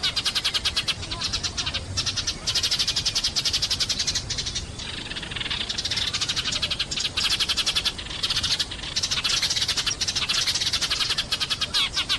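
Sparrows chirping in fast, dense runs of short chirps, many a second, with brief lulls between runs.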